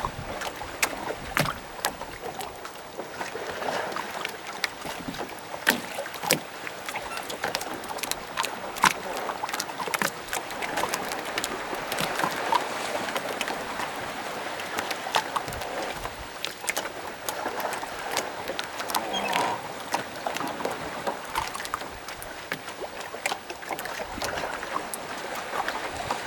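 Small waves lapping and slapping against moored wooden rowboats at a dock, with frequent irregular small knocks and clicks.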